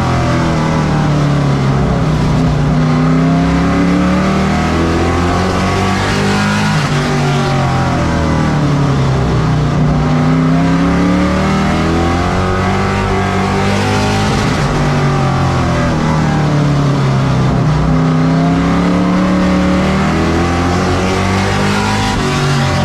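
Race truck engines running at racing speed on a short oval. The engine note drops and climbs again in a repeating cycle roughly every eight seconds, as the trucks lift into each turn and accelerate down the straights.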